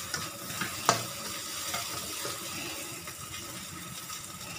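Sliced onion and pounded anchovy-chilli paste sizzling steadily in a non-stick wok while a plastic spatula stirs them, scraping and tapping against the pan, with one sharper knock about a second in.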